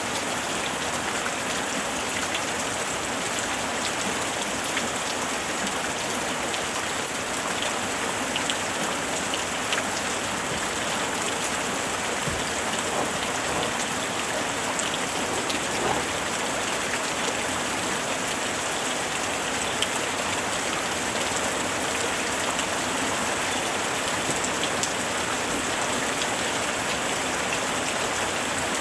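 Steady rain falling on a surface, an even hiss with scattered sharper drop impacts.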